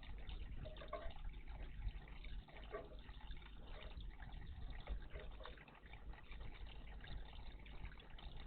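Water trickling and splashing steadily in a garden bird bath, with small uneven splashes.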